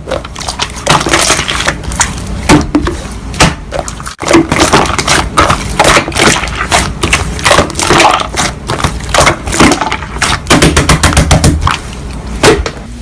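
Slime being pressed and squished by hand, a dense run of irregular crackles and pops, with a brief pause about four seconds in.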